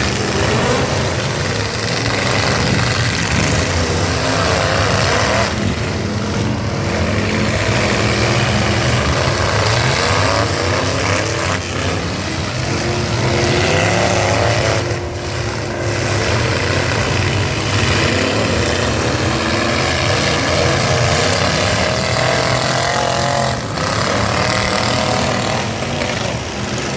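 Several full-size pickup trucks' engines running and revving at once in a demolition derby, with crashes and scraping metal mixed in.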